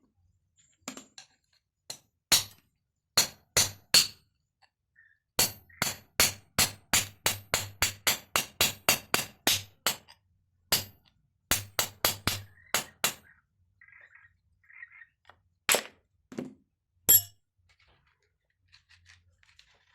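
Hammer blows on steel, a chisel being forged from an old file. The blows come singly at first, then in a fast run of about four a second for several seconds, then another shorter run and two last heavy blows. Each strike rings bright and metallic.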